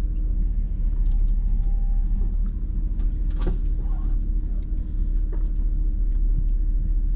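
Hummer H2's V8 engine running at low speed, heard from inside the cabin as a steady low rumble, with scattered light clicks over it.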